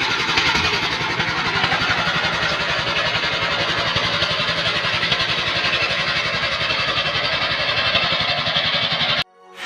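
Rice-field tractor engine running steadily with a fast, even firing pulse, then cutting off abruptly about nine seconds in.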